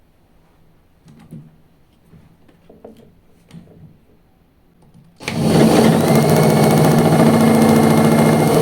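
A few light handling knocks. Then, about five seconds in, a motor-driven machine starts abruptly and runs steadily with a thin high whine. This is a bench test of a homemade motorcycle CDI ignition unit.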